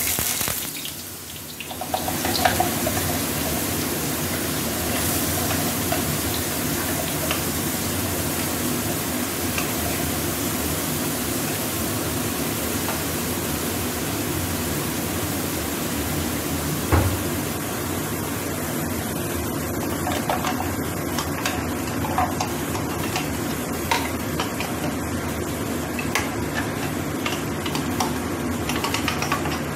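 Blended chili spice paste frying in hot oil in a wok: a steady sizzle that starts about two seconds in. A single knock comes about halfway through.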